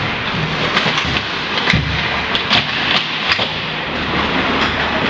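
Ice hockey game play: a string of sharp clacks of sticks and puck over a steady rink din of skates and crowd.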